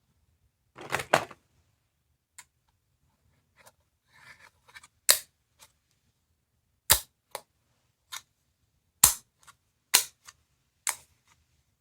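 A small sound-making capsule toy being played with: a rustle of handling about a second in, then about five sharp single snaps one to two seconds apart.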